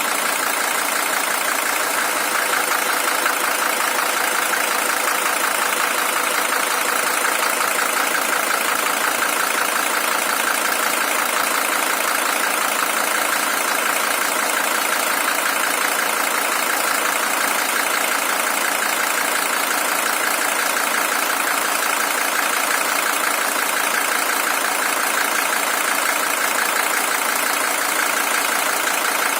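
Mercedes-Benz W123 300TD's OM617 five-cylinder diesel engine at a steady, even idle with a rapid, regular clatter. The engine is the original one, with 620,000 km on it.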